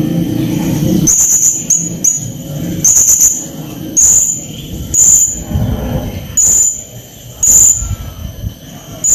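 Blue-crowned hanging parrot (serindit) giving short, sharp, shrill high-pitched calls about once a second, over a low background rumble.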